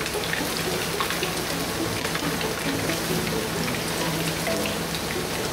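Floured chicken pieces (karaage) deep-frying in a pan of hot oil: a steady, crackling sizzle.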